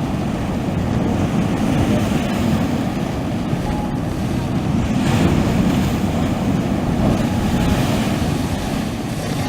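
Sea waves washing on the shore, a steady surf noise with two swells of hissing wash, about halfway through and near the end. Wind buffets the microphone, adding a heavy low rumble.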